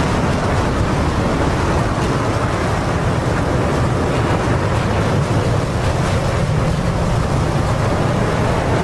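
Steady engine and airflow noise of a military jet in flight, heard from inside the cockpit, with a deep low rumble under a constant rushing hiss.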